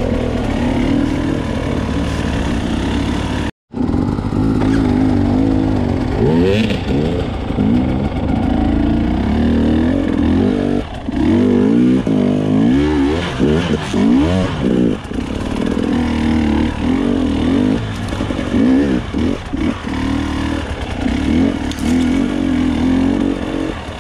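KTM 300 EXC two-stroke enduro motorcycle engine under the rider, revving up and down as it climbs a rough trail. The sound cuts out completely for a split second about three and a half seconds in.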